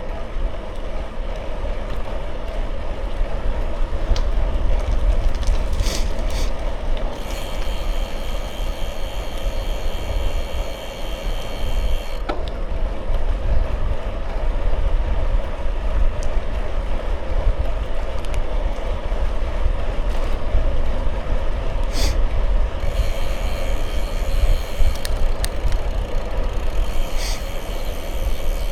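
Wind buffeting the microphone over a bicycle's tyres rolling along the road, a steady low rumble. Twice a high, steady ringing comes in for several seconds, with a few sharp clicks.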